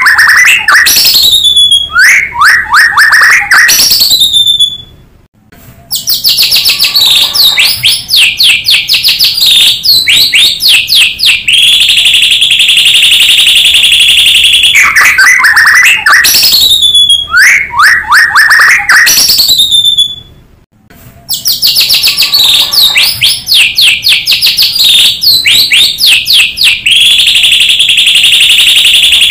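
White-rumped shama song, loud: fast whistled trills, downward-sweeping notes and a long harsh buzzing note, with a brief pause about five seconds in and again about twenty seconds in. The same song sequence repeats about every fifteen seconds, a looped lure recording of the bird.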